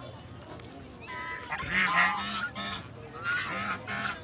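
Domestic waterfowl calling in two loud bouts of repeated calls, the first starting about a second in and the second near the end.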